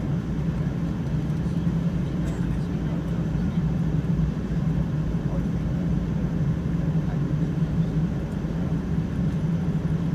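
Steady drone of a Boeing 777-200ER's Rolls-Royce Trent 800 engines and airflow heard from inside the economy cabin, a constant low hum with no change in pitch or level.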